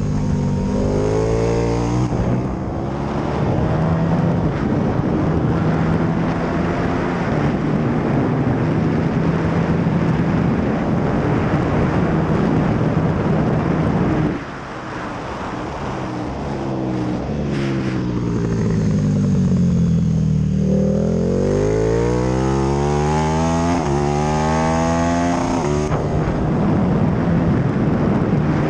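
KTM 1290 Super Duke R's 1301 cc V-twin engine at full throttle on track, with heavy wind rush. About 14 seconds in the throttle shuts and the revs fall away through the downshifts. The revs then climb again in steps through the gears.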